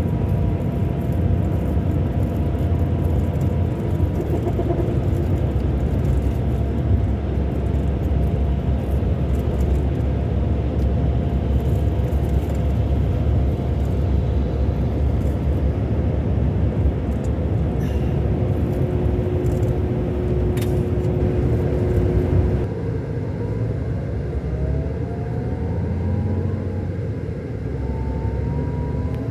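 Scania K400 Euro 5 coach's 13-litre six-cylinder diesel running steadily under way, a continuous low rumble. About three-quarters of the way through the sound drops suddenly, then rising whining tones follow as the engine picks up again.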